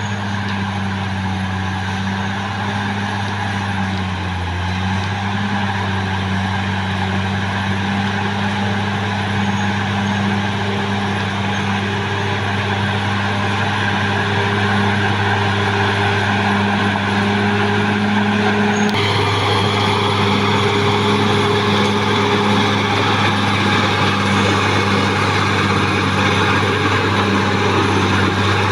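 Caterpillar D6R XL bulldozer's diesel engine running steadily under work. The sound changes abruptly about two-thirds of the way through.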